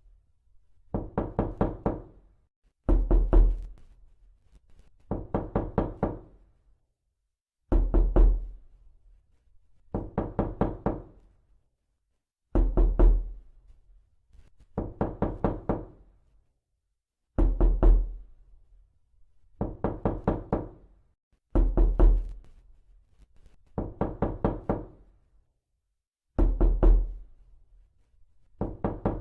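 Realistic knocking repeated over and over: quick bursts of about four to six knocks, a new burst every two seconds or so, with short silent gaps between.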